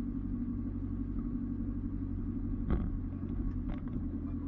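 Off-road 4x4 vehicle's engine running steadily at low revs. A sharp knock comes about two and a half seconds in, and a lighter one a second later.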